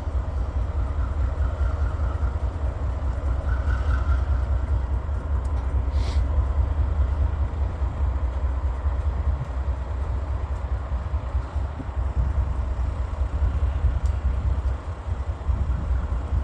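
Norfolk Southern freight train rolling past slowly as it picks back up speed, a steady low rumble of the cars on the rails.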